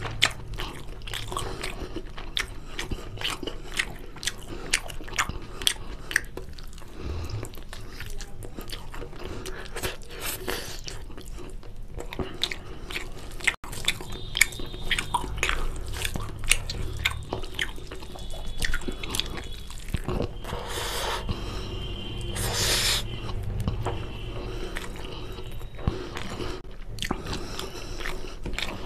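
Close-miked person chewing and biting chicken curry with rice: a continuous run of wet mouth clicks and smacks. The sound cuts out for an instant about halfway through.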